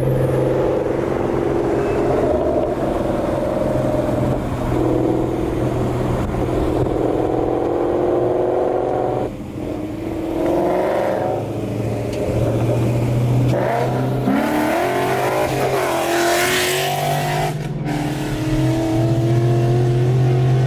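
Ford Mustang GT's V8 through long-tube headers, an X-pipe and Roush axle-back mufflers, running as the car drives at fairly steady revs. About two-thirds of the way through the revs climb, with a brief break shortly after before the engine settles back to a steady note.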